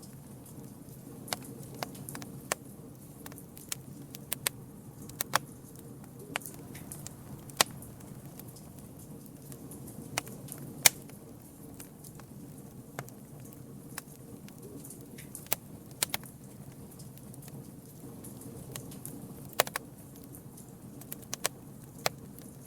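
Campfire crackling: sharp, irregular pops and snaps from the burning wood, a few loud ones among many small ones, over a steady low rush of the flames.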